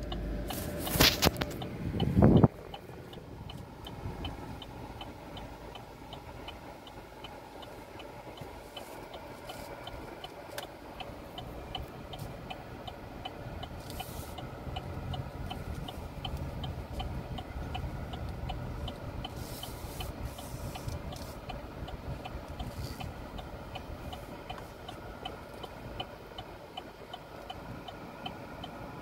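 Car cabin sound: the car's engine running low and steady, with an even, rapid ticking. Loud knocks in the first couple of seconds.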